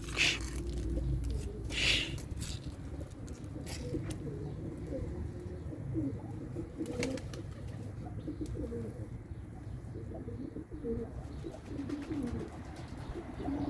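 Several domestic pigeons cooing together in overlapping short calls, with a few sharp clicks near the start and about seven seconds in.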